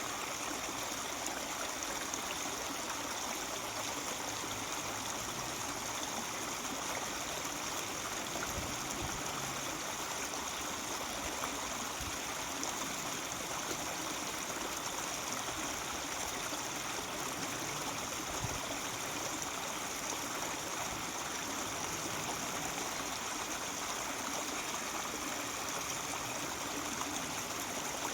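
Mountain stream babbling and trickling over rocks, a steady even rush of water.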